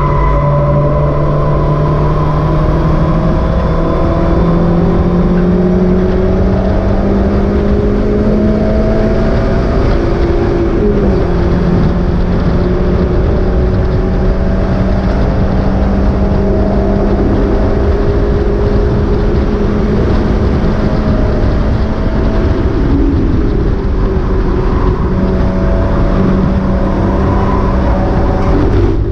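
Mazda MX-5 race car engine running under load, its pitch climbing slowly, dipping briefly about eleven seconds in, then holding a steady note, over constant road and wind noise.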